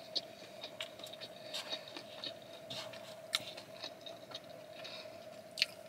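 Close-miked chewing of a poké bowl mouthful: small wet smacks and clicks scattered irregularly, over a faint steady hum.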